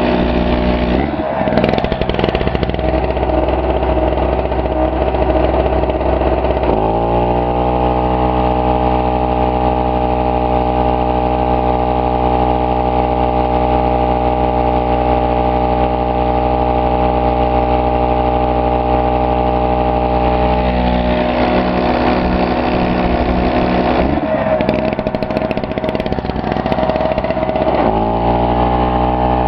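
Pulsar PG1202S 72cc two-stroke generator engine running under the load of an electric air compressor, with the compressor motor and pump running along with it. The engine's note goes rough and uneven about a second in and again from about 21 to 28 seconds in, and holds a steady pitch in between and at the end.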